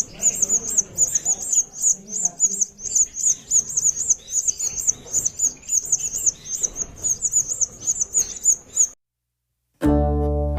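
Parrot chicks in the nest giving a rapid, even series of high begging chirps, which cut off about nine seconds in. Plucked-string music, like a ukulele, starts near the end.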